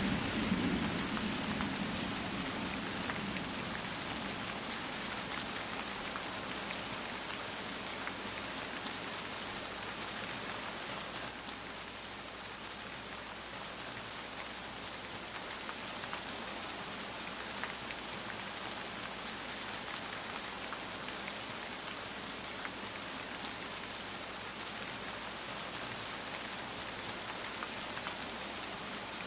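Steady rain falling, an even hiss of many drops. The tail of a low thunder rumble dies away in the first few seconds.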